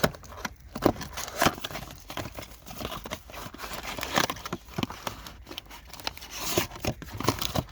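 A trading-card blaster box being torn open by hand: its packaging crinkles and rips in irregular crackles.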